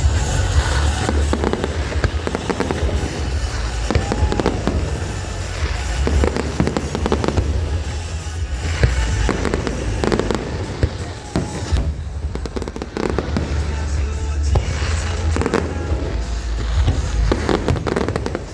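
Aerial fireworks bursting in rapid succession: deep booms and sharp cracks with crackling, while music plays.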